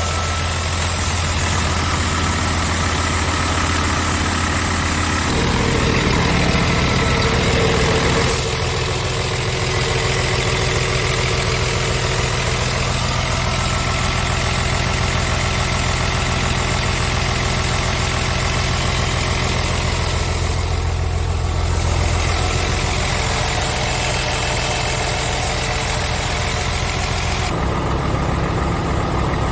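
Scania R tractor unit's diesel engine idling steadily. Its tone shifts a few times and it is briefly a little louder between about five and eight seconds in.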